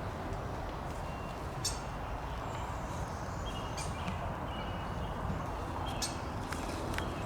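Outdoor ambience: a steady low background noise with scattered short bird chirps and a few sharp clicks.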